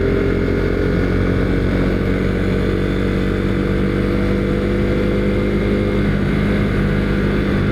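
Husqvarna Svartpilen 401's single-cylinder engine running steadily while riding at cruising speed, its pitch holding nearly level with a slight shift about six seconds in.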